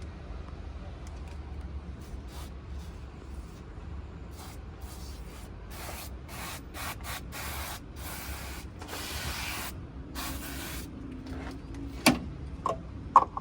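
ERC rust remover sprayed onto a rusty steel cab floor: a run of short hissing spray bursts, then two longer sprays of about a second or more each. Two sharp knocks near the end.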